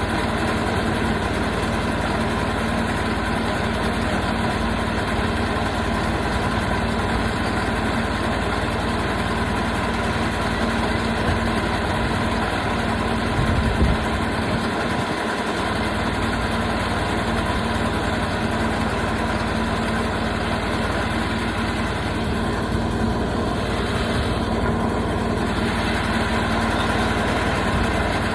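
Portable sawmill engine running steadily at a constant speed, with a short low thump a little before halfway through.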